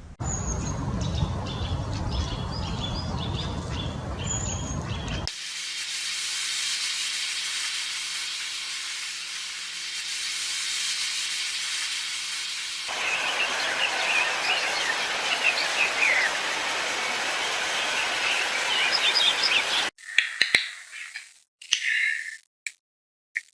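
Small birds chirping over a steady hiss, in several cut-together stretches: a middle stretch of plain hiss with a faint low hum between them. Near the end the chirps come short and separate, with silence between.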